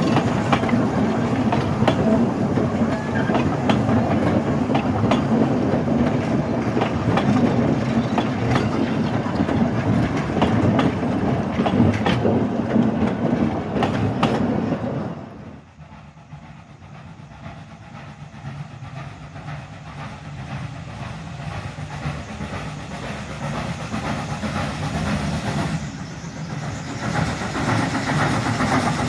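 Train cars rolling along the track, the wheels clicking over the rail joints. About halfway through, the sound drops suddenly to a quieter steady rumble, which grows louder again near the end.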